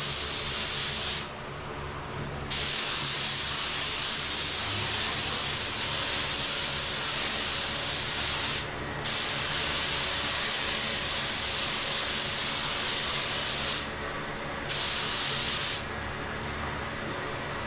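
A paint sprayer hissing as clear coat is sprayed onto a car bumper, in long passes with the trigger let off briefly three times, the spraying stopping near the end.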